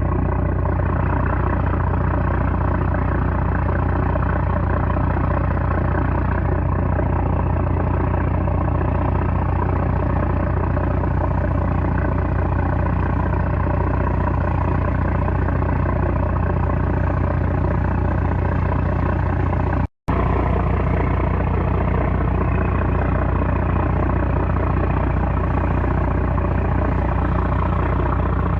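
A small trawler's 330-horsepower engine running steadily with a deep, continuous drone. The sound cuts out for an instant about two-thirds of the way through and then carries on much the same.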